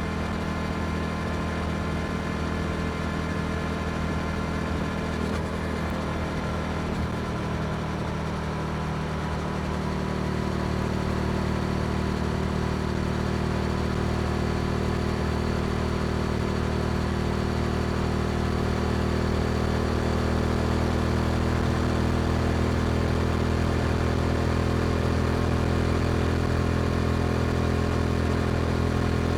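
Yamaha R7's 689 cc parallel-twin engine through an Akrapovič exhaust, running steadily under way. About ten seconds in the engine note changes and grows a little louder as the throttle opens, then holds steady.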